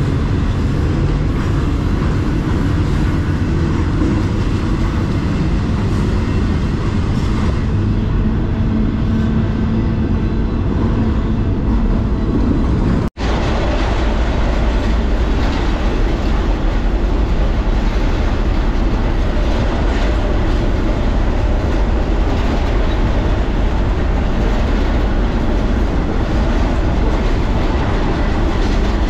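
Freight train rolling, heard from aboard a car: a loud, steady rumble and rattle of wheels on the rails. The sound cuts out for an instant about 13 seconds in, then carries on.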